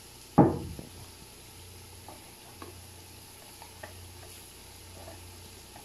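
A single dull thump about half a second in, then a tomato masala frying gently in a large aluminium pot, with a faint low hum and a few soft clicks of a spoon among the spices.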